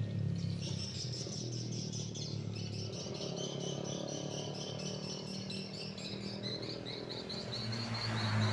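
Small birds chirping in quick runs of repeated high notes, over a steady low hum.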